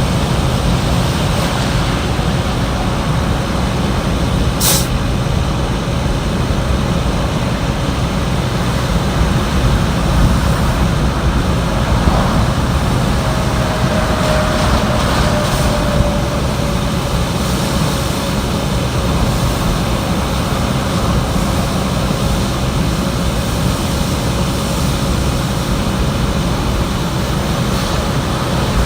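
Steady low rumble of heavy vehicles and road traffic, with a single sharp click about five seconds in.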